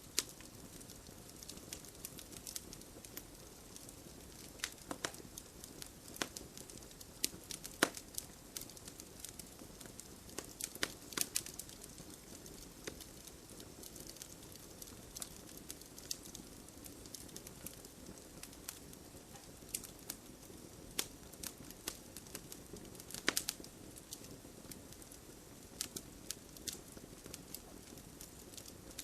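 Campfire burning steadily, wood crackling with irregular sharp pops over a low hiss of flame, a few louder pops standing out.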